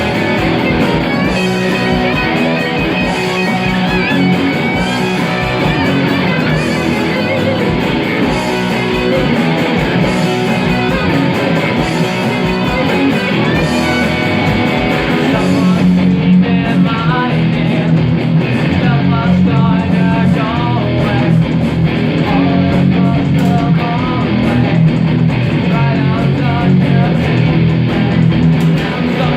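Guitar-led music with no singing, an instrumental passage of a song. About halfway through, the brightest high sounds drop away while the lower guitar parts carry on.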